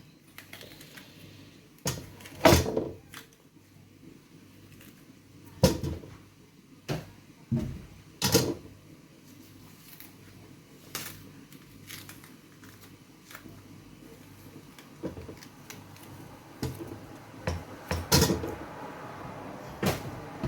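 Irregular knocks and clacks of a kitchen knife cutting up a pumpkin, spaced a few seconds apart. The strongest come about two and a half seconds in and again near the end.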